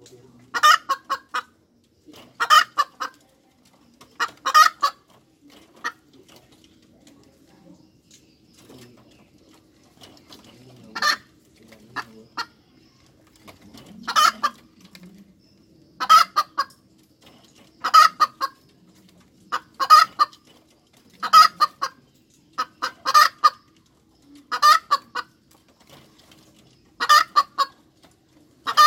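Hen cackling: clusters of quick, sharp clucks repeated about every two seconds, with a pause of about five seconds after the first three calls.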